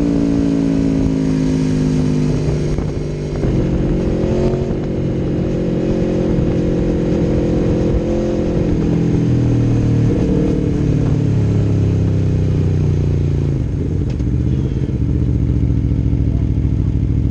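Aprilia Tuono V4 1100 Factory's V4 engine through an Akrapovic exhaust, running on the road. Its pitch steps down several times, with brief dips in loudness at the gear changes.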